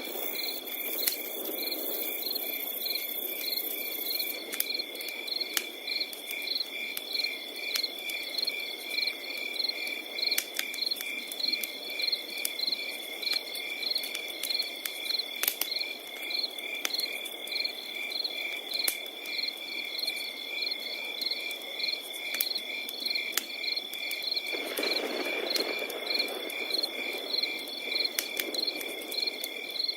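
Crickets chirping in an even, repeating rhythm over a continuous high trill, with a fire crackling underneath in scattered sharp pops and snaps. The fire's lower hiss grows louder about five seconds before the end.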